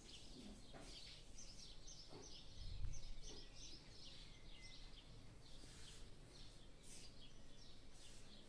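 Small birds chirping faintly, a steady stream of short high notes, with one low thump a little under three seconds in.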